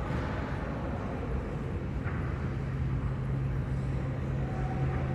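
Steady rumble of a running vehicle or aircraft, with a low steady hum joining about halfway through.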